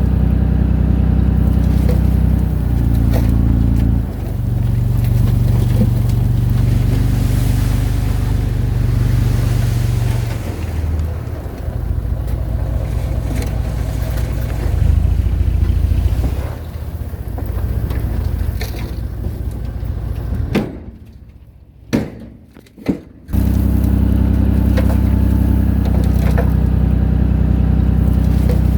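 Diesel engine of earthmoving machinery running, its pitch shifting a few times as it works. Near the end it drops away for about three seconds, broken by two sharp knocks, then comes back steady.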